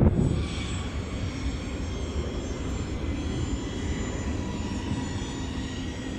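Airliner engines running: a steady low rumble with several high, thin whining tones over it.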